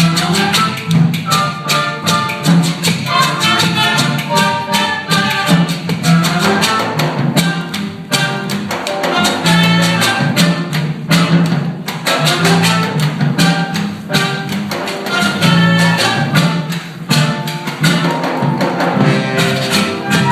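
Danzón music played by an orchestra, with a steady bass and percussion keeping an even beat under the melody.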